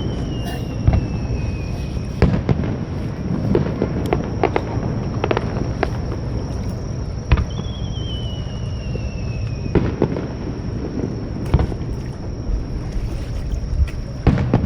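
Fireworks display: scattered sharp bangs and pops, with whistling shells that each give a whistle falling in pitch for about two seconds before a bang, once at the start and again about halfway through.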